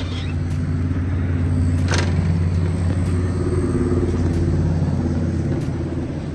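A motor vehicle's engine running with a steady low rumble, growing louder over the first few seconds and easing off near the end. There is a short click about two seconds in.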